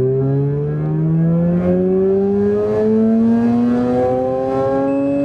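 Mazda RX-8's two-rotor Renesis rotary engine pulling hard in second gear at full throttle, its pitch rising steadily as it revs into the red line, heard from inside the cabin. The car runs a Racing Beat ECU flash that lets it rev past the stock red line. A steady high beep comes in near the end.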